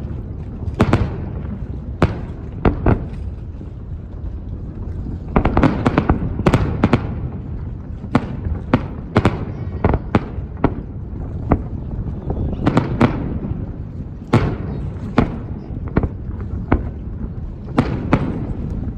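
Aerial firework shells bursting in an irregular series of sharp bangs over a continuous low rumble, with a denser run of bangs about six seconds in.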